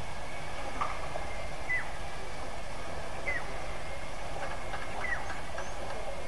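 A bird gives a short whistle that drops sharply in pitch, three times, about every one and a half to two seconds, over the steady rush of river water.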